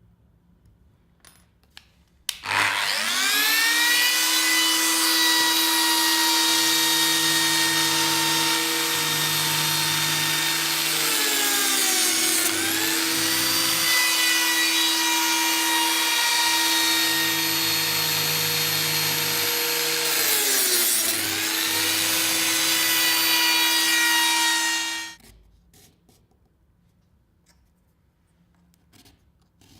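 CNC router spindle spinning up and machining Clamex P-15 connector slots into wood, a loud steady high whine. It starts a couple of seconds in, rising in pitch as it comes up to speed, dips in pitch twice as the cutter takes load, and stops abruptly near the end.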